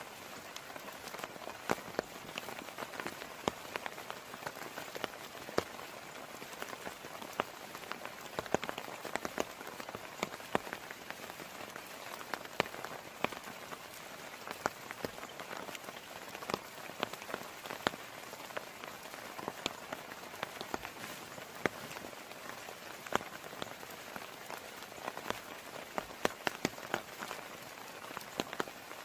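Heavy rain falling steadily, with a constant hiss and many sharp individual drops tapping close by.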